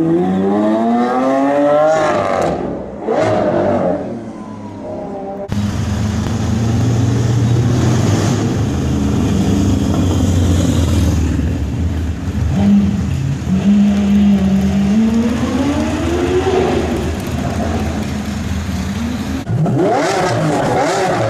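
Lamborghini Aventador SV V12 engines: one accelerating hard, its note climbing steeply, dropping briefly at a shift about two seconds in and climbing again. Then a low steady rumble at slow speed with a short blip and a slower rise, and near the end revs climbing once more.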